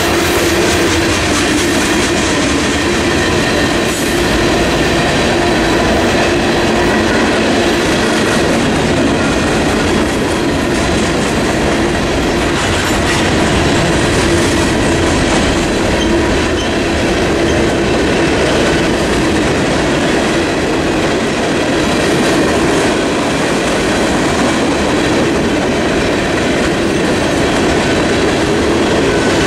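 A long freight train's tank cars and covered hoppers rolling past at close range: a loud, steady rumble of the rolling train, with the wheels clicking over the rail joints.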